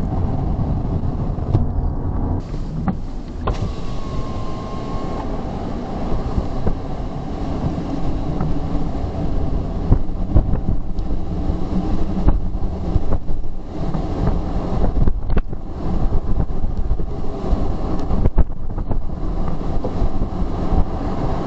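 A car driving at speed, heard from inside: a steady rumble of road and engine noise that rises and falls in loudness.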